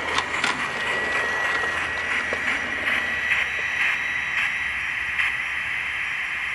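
Sound card of a Gauge 1 model J94 steam locomotive: the exhaust beats come further and further apart as the locomotive coasts to a stop on inertia with its regulator shut. They fade out over a steady hiss.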